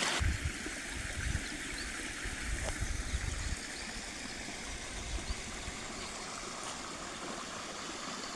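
Stream water running steadily, with low rumbling in the first three or four seconds.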